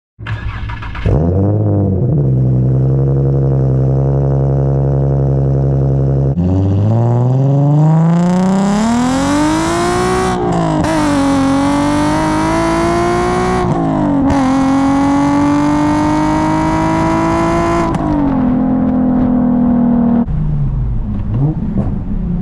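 Car engine and exhaust: a quick blip of revs, a steady pull, then hard acceleration with the pitch climbing and dropping at two gear changes, holding steady and easing off near the end.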